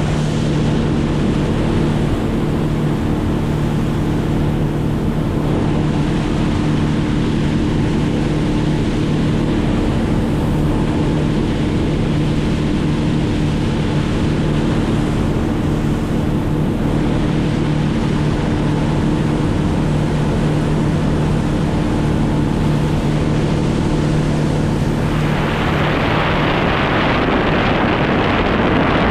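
A motor running at a steady, unchanging speed, with wind rushing over the microphone; the wind noise grows louder about 25 seconds in.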